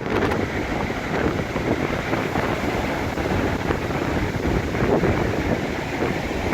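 Wind buffeting the microphone with a steady rumble, over the wash of sea surf.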